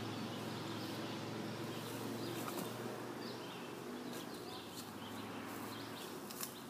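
Birds chirping, short rising and falling calls, over a steady low hum, with a few faint clicks near the end.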